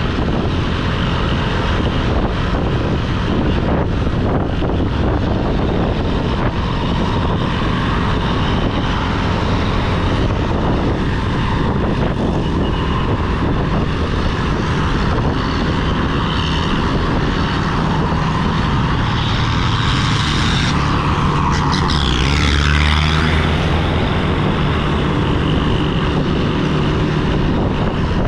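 Yamaha YBR125G motorcycle's single-cylinder engine running steadily at road speed, mixed with wind rush. About three-quarters of the way through, a louder sweep falls in pitch, with a brief swell in the low drone.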